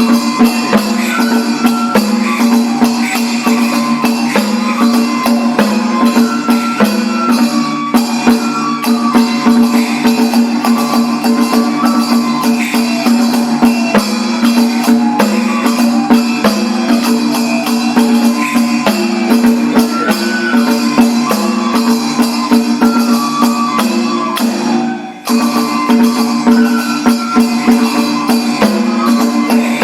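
Kagura hayashi music played by a lion-dance (daikagura) troupe. A melody of short held notes runs over a steady drum beat and dense metallic jangling of small hand cymbals. The music briefly drops out about 25 seconds in and then resumes.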